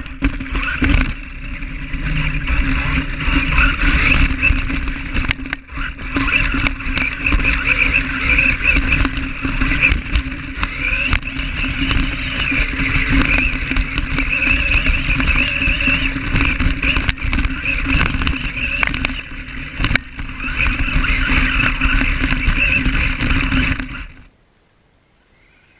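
Foxx S911 radio-controlled monster truck running: a steady whine from its electric motor and gears, with many quick clicks and knocks from the truck moving over the ground. It cuts off abruptly about 24 seconds in.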